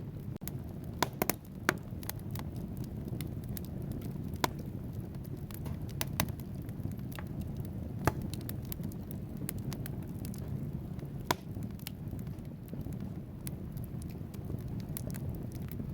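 Wood fire burning in a fireplace: a steady low rumble of flames with frequent sharp crackles and pops from the burning logs, irregularly spaced. A loud cluster of pops comes about a second in, and single loud pops come around the middle and again later.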